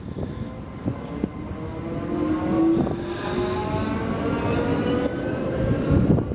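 Class 458 electric multiple unit pulling away from the platform as it gathers speed. Its traction motors give a whine of several tones that rise steadily in pitch over the rumble of the wheels.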